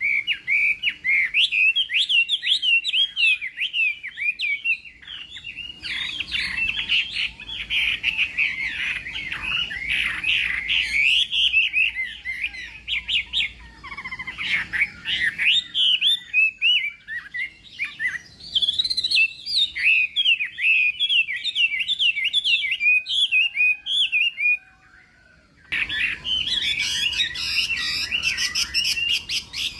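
Chinese hwamei singing a long, fast, varied song of rapid whistled notes. The song breaks off for about a second near the end, then resumes.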